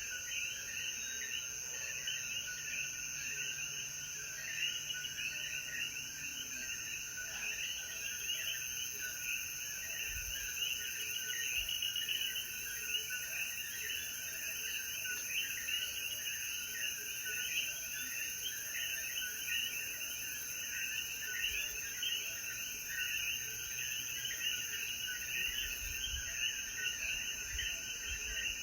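Chorus of many coquí frogs calling over one another, their short rising calls overlapping densely, over a steady high-pitched insect drone.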